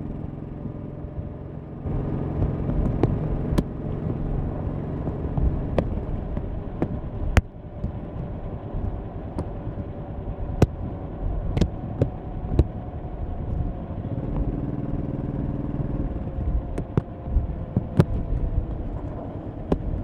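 1100cc V-twin motorcycle engine running on the move. It gets louder about two seconds in, eases off briefly near the middle, then slowly drops in pitch over the last several seconds. Scattered sharp clicks are heard throughout.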